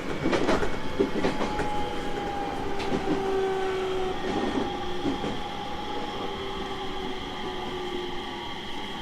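Running sound of a 701 series 1000-subseries electric multiple unit: wheels clacking over rail joints for the first couple of seconds, then the traction motor whine under a steady rumble, its pitch drifting slightly down while the overall sound eases as the train slows.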